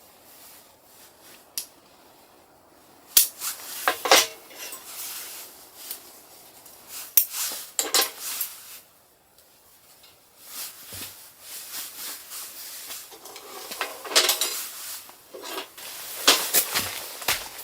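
Metal cooking utensils clinking and scraping against a pan or pot, in a series of separate sharp clinks with quieter handling between them.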